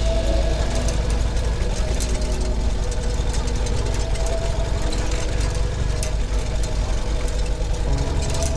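Ural sidecar motorcycle's air-cooled flat-twin engine running steadily at low revs, with a shift in the low rumble near the end.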